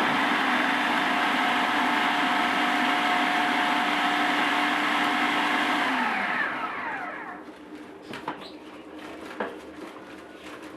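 Electric kitchen blender running steadily, then switched off about six seconds in, its motor winding down in pitch. A few light clicks and taps follow.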